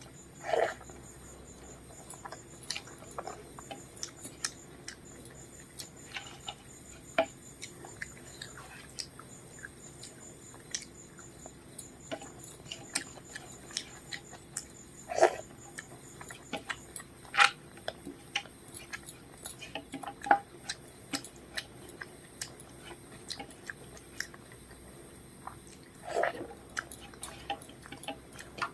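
Close-miked eating sounds from a meal of rice, dal and fried fish and vegetables: chewing with many short wet clicks and mouth smacks, and a few louder, longer sounds about half a second in, around the middle and near the end.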